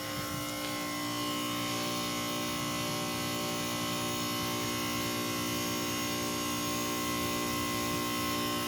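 A 1995 BDP heat pump's outdoor unit running in its defrost cycle: a steady hum of many fixed tones from the running compressor, rising a little in level over the first couple of seconds.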